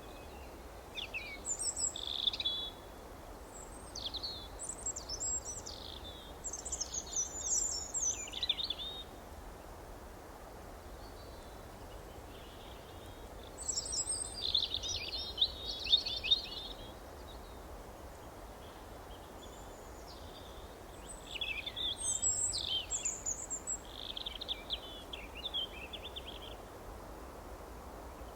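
Songbirds chirping and singing in three bouts of quick high notes, each several seconds long, with pauses between, over a steady faint background hiss.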